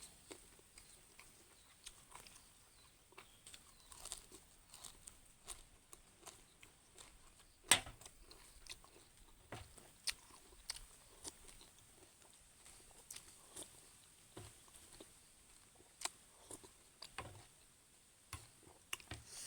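A person chewing mouthfuls of thin rice noodles, pork and fresh vegetables, with scattered small clicks and one sharp, louder click about eight seconds in.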